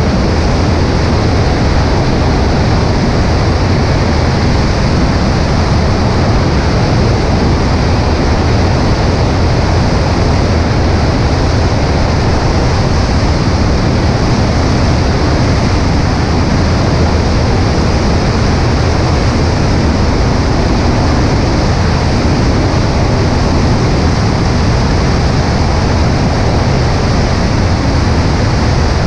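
Cessna 140A in flight: a loud, unbroken rush of wind over a microphone mounted on the right wing, with the steady drone of the engine and propeller underneath.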